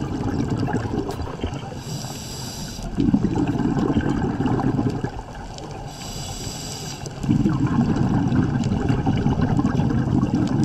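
Scuba diver breathing through a regulator underwater: two short hissing inhales, each followed by a few seconds of bubbling exhale.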